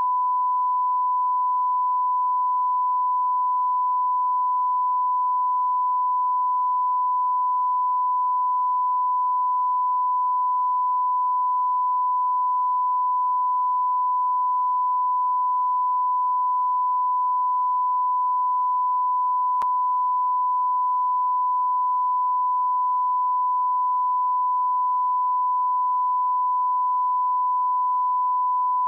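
A continuous electronic sine-wave tone at about 1 kHz, held at one pitch and one level with no breaks, like a test tone or censor bleep.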